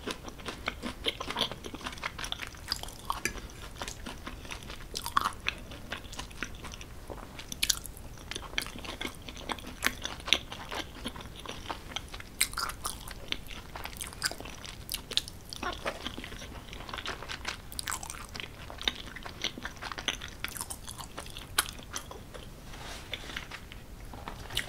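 Close-miked chewing of creamy tortellini pasta with bacon and crunchy vegetables: a steady run of small wet clicks and crunches.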